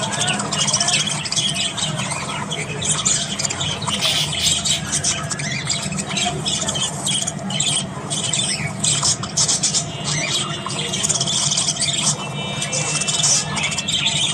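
A group of budgerigars chattering and squawking without a break, a dense mix of shrill chirps and screeches, over a steady low hum.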